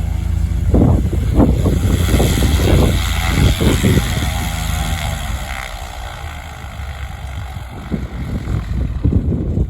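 Light propeller airplane's engine running at high power as it passes, its pitch sliding down and the sound fading over the second half.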